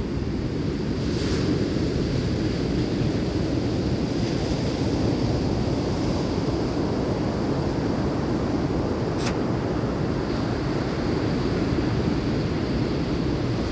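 Ocean surf mixed with wind buffeting the microphone: a steady, low rushing noise.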